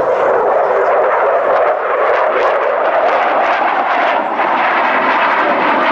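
Aircraft engine noise from a plane flying the display, a loud, steady rush with no clear pitch.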